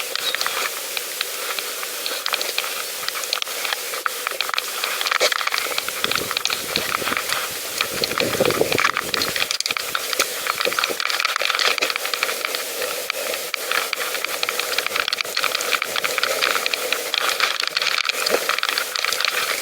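Bicycle on the move: steady hissing tyre noise on a rough path, with many small clicks and rattles from the bike. A brief lower-pitched swell comes in about eight seconds in.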